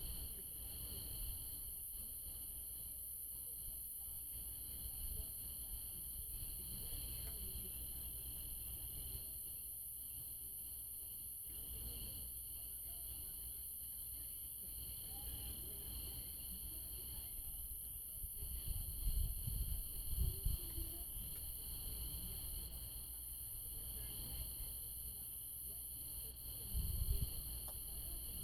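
A steady night chorus of crickets and other insects trilling at several pitches at once. Low rumbles on the microphone come in about two-thirds of the way through and again near the end.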